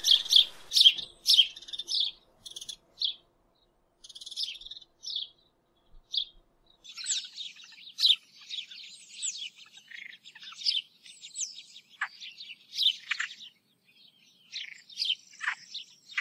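A small bird chirping and twittering in quick, varied high phrases, with a couple of short pauses.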